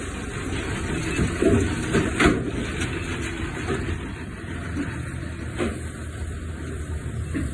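Heavy diesel machinery running steadily, with a few sharp clanks or knocks, the loudest around two seconds in.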